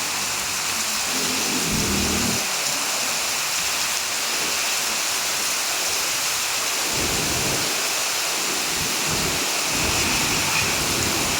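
Heavy rain falling steadily as a dense, even hiss, with a few low rumbles coming and going beneath it.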